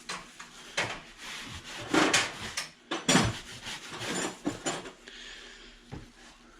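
Irregular rubbing and scraping strokes as pressure washer pump parts are cleaned by hand, loudest about two and three seconds in, easing off near the end.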